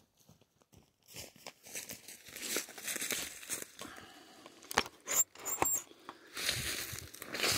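Rustling, crackling and knocking of a camera being handled and carried, the mic rubbing against hand or clothing, with a couple of short high squeaks about five seconds in.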